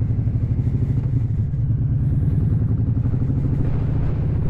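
Harley-Davidson V-twin motorcycle running steadily under way, its exhaust note a deep, even pulse.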